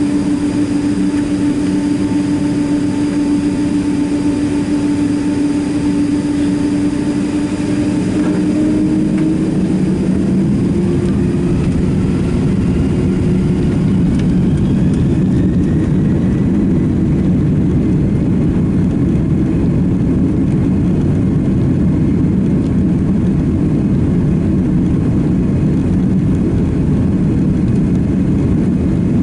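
Boeing 767-300ER jet engines heard from inside the passenger cabin: a steady hum that fades about a third of the way in as the engine roar grows slightly louder, with faint whines rising in pitch through the middle.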